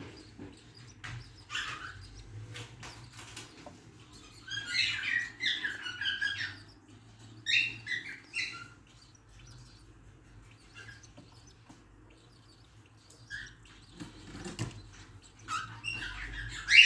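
A caged parrot chick giving raspy begging chirps in short clusters while the male feeds it.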